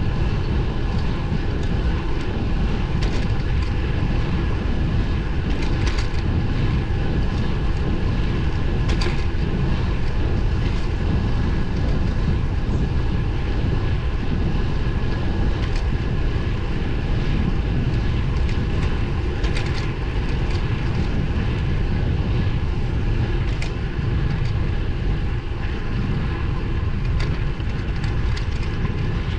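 Steady wind rush buffeting the microphone on a road bike at speed, mixed with road and tyre noise, with a few faint clicks.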